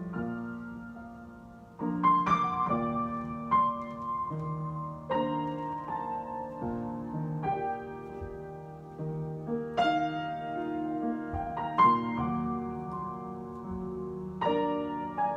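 Solo piano improvisation: slow chords and melody notes struck every second or two and left to ring. It is softer at first, with a fuller chord about two seconds in.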